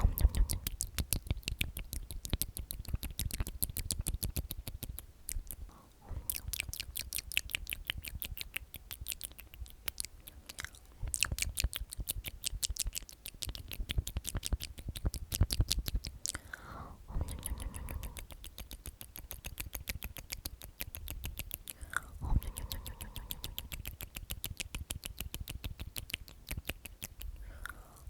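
Whispered "omnomnom" repeated over and over into a close ASMR microphone: rapid wet mouth clicks and lip smacks, broken by a few short pauses.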